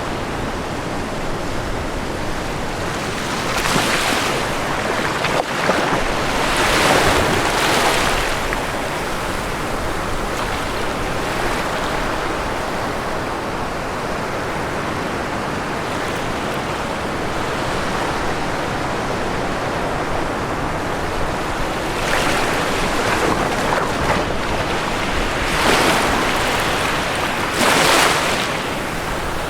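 Ocean waves breaking on a shore, a steady wash of surf with louder breakers about 4 and 7 seconds in and again several times over the last eight seconds.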